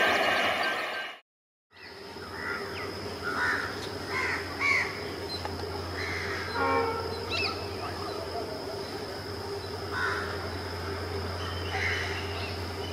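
A passing diesel-hauled passenger train rumbling, cut off abruptly about a second in. Then birds calling every few seconds over a steady low hum.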